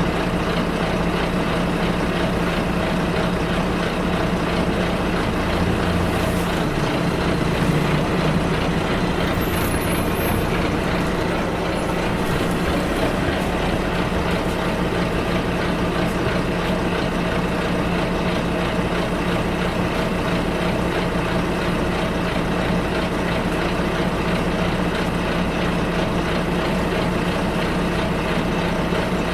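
Interior sound of a moving bus: the diesel engine drones steadily under road and tyre noise, with a brief change in the engine's pitch about a quarter of the way through.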